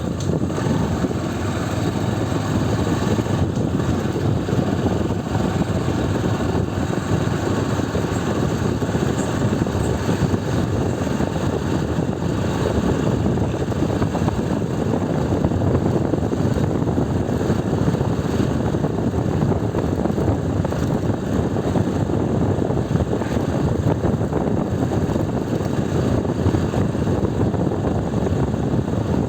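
Motorcycle riding along at a steady speed: a constant rush of engine and road noise that holds level with no revs or changes.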